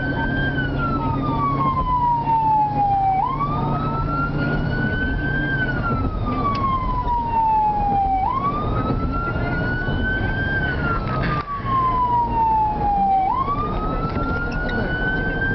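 Fire apparatus siren on the wail setting, sweeping up quickly and gliding slowly back down about every five seconds, three full cycles, over the steady drone of the truck's engine and road noise.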